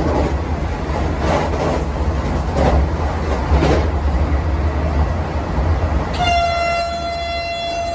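Rumble of a passenger train running on the track, heard from on board; about six seconds in a train horn starts a long, steady, single-pitched note that holds on.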